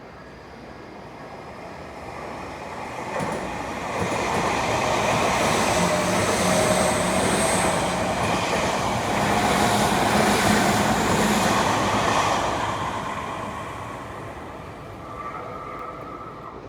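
Electric commuter train on the Tokyu Toyoko Line passing a level crossing: the sound builds over the first few seconds, stays loud for about eight seconds with a few steady tones in it, then fades away.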